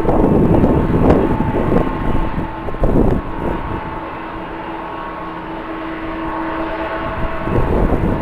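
Jet airliner engines running with a steady whine, under gusts of strong wind buffeting the microphone; the gusts are loudest in the first three seconds and pick up again near the end.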